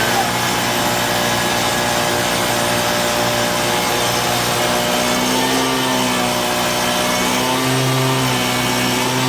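Gas-powered leaf blower engine running steadily near full throttle, blowing through a clogged dryer vent to clear out lint, its pitch shifting slightly a few times.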